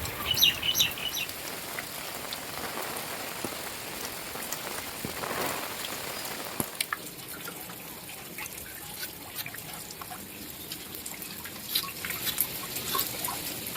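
Heavy rain falling steadily, with many separate close drops and drips striking surfaces.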